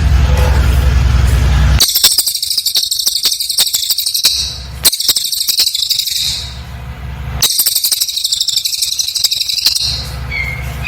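Cililin bird singing in three long bursts of very high, rapid rattling trills, each a couple of seconds long, with short, evenly spaced pauses between them. A low steady hum fills the first two seconds before the song starts.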